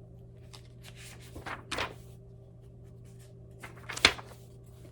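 Picture book being handled and its page turned: a couple of soft paper rustles, then a sharp tap about four seconds in, over a steady low hum.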